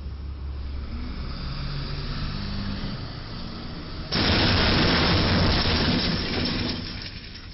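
Vehicle engine and road rumble, then about four seconds in a sudden loud crash noise that lasts about two seconds and fades away.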